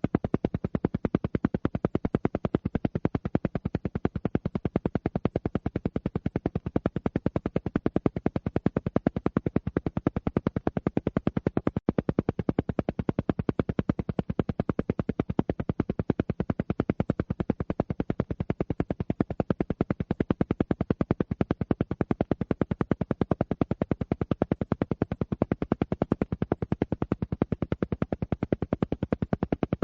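Alpha-wave brainwave-entrainment audio: a steady, rapid, evenly spaced pulsing at about ten pulses a second.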